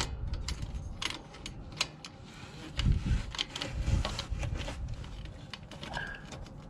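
Small metal items clinking and rattling as they are handled, in irregular clicks, with a couple of dull knocks about three and four seconds in.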